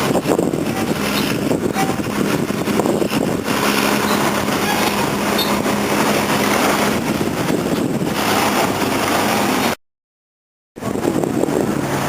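An engine running with a steady low hum under a loud rushing noise. The sound cuts out completely for about a second near the end.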